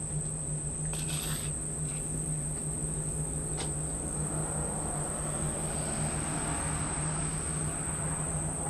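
Steady, high-pitched chorus of crickets or similar insects trilling without a break, over a low steady hum.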